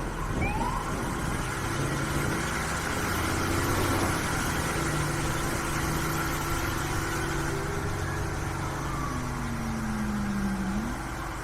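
Fire truck's diesel engine running steadily, with a short rising siren whoop right at the start and a low falling tone near the end.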